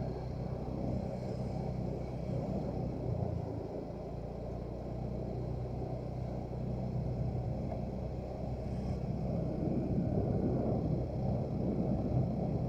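Motorcycle engine running steadily while riding, with low wind and road rumble.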